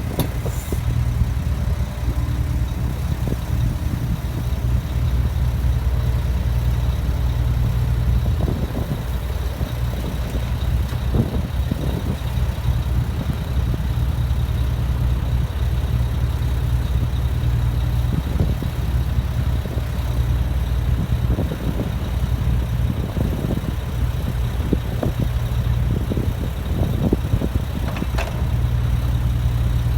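Earth-moving machine's engine running steadily, with scattered knocks and clatter through the middle of the stretch as dirt is dug and loaded.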